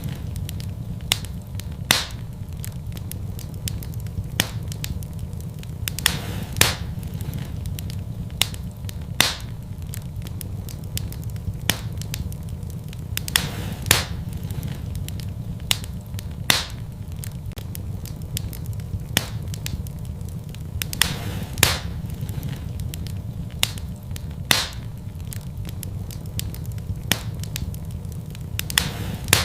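Fire in a fireplace crackling: sharp, irregular pops, some louder than others, about one every second or two, over a steady low rumble.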